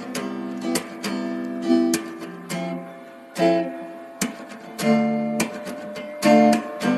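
Background music: acoustic guitar strumming chords, changing every second or so.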